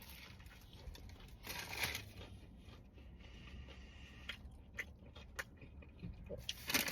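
A person biting into and chewing a steak sandwich: faint crunching and chewing noises with a few small clicks.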